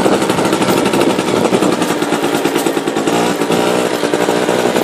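ATV (four-wheeler) engine running steadily under throttle, its pitch wavering slightly about three seconds in.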